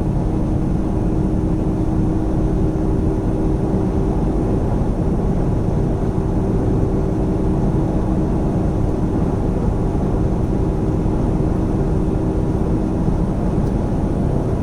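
Semi truck's diesel engine pulling up a grade, heard from inside the cab as a steady low drone mixed with road noise.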